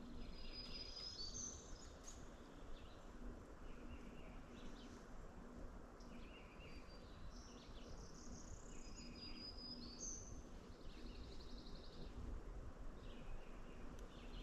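Several small songbirds singing, with short high phrases repeating every second or two and a buzzy trill near the middle, over a steady low outdoor background hiss.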